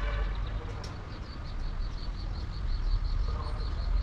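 A run of rapid, evenly spaced high-pitched chirps, about six a second, starting about a second in, from a small animal. Beneath it is a constant low rumble.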